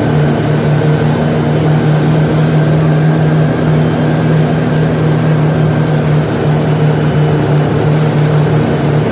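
Charter fishing boat's inboard engine running at a steady pitch, heard on board with a hiss of wind and water underneath.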